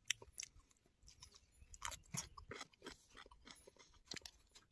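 A person chewing a mouthful of food close to the microphone: faint, irregular wet clicks and small crunches.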